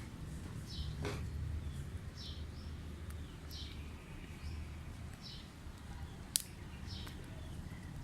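A bird chirping over and over, one short high chirp about every second and a half, above a steady low hum. A single sharp click sounds a little after six seconds.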